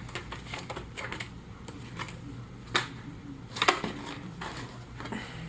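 Thin balsa wood pieces and kit packaging being handled: a run of light clicks and rattles, with two sharper knocks about three and four seconds in.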